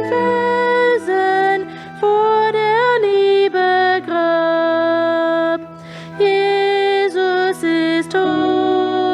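A slow hymn sung by a solo voice in long held notes, over sustained low chords from an accompanying instrument.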